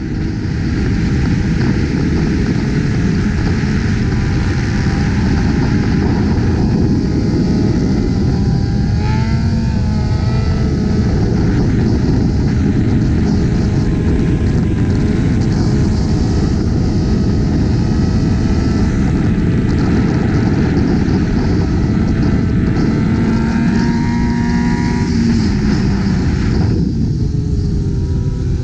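Motor vehicles running at highway speed under a heavy, steady rush of wind and road noise. An engine's pitch rises and falls about nine seconds in and again near the end.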